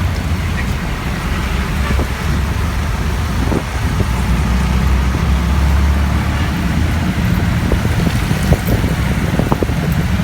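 Rain falling steadily: an even hiss over a strong low rumble, with scattered light ticks.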